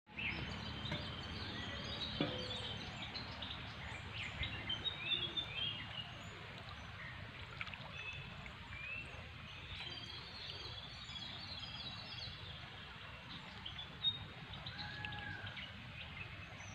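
Several birds chirping and calling in short phrases over a steady low background noise, with a few brief knocks.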